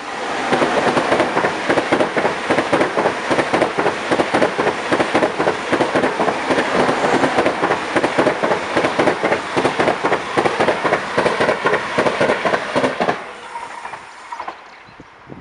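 An ICE 2 high-speed train passing close by at speed: a loud rush of running noise with rapid, rhythmic clatter of wheels over rail joints. It cuts off suddenly near the end, leaving only faint distant rail sounds.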